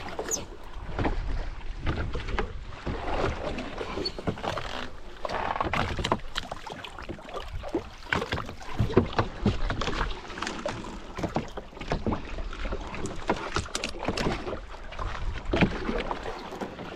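Water splashing and slapping around a small open boat, with irregular knocks and clatter throughout.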